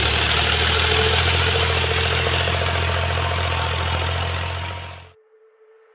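Tractor engine running steadily, fading out about five seconds in.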